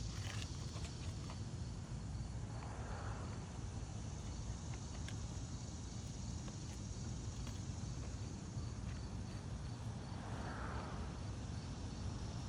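Outdoor ambience: insects chirring steadily at a high pitch over a constant low rumble, with two soft rustling swells, one about three seconds in and one near the end, and a few light clicks.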